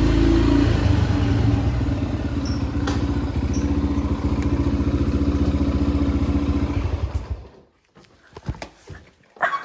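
Yamaha dirt bike engine running steadily, then stopping about seven seconds in; a few scattered knocks follow.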